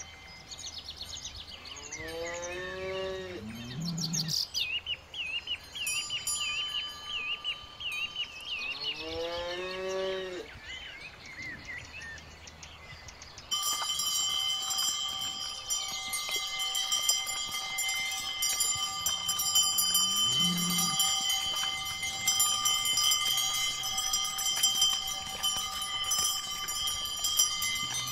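Brown Swiss cows mooing: two long calls, each rising and then falling in pitch, a few seconds apart. About halfway through, many cowbells start ringing and jingling steadily as the herd shifts about.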